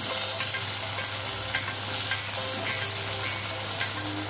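Cubed potatoes frying in hot oil in a metal kadhai on a low flame, sizzling steadily while a metal ladle stirs them, with a few light clicks of the ladle against the pan.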